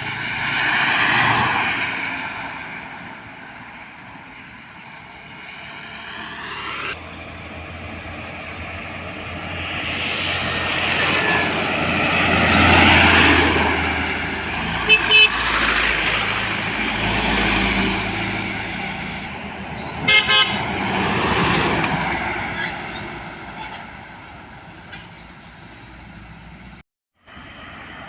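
Heavy trucks and buses passing on a road, their engine and tyre noise rising and fading as each goes by, with horns sounding, including a long multi-tone horn blast at the start.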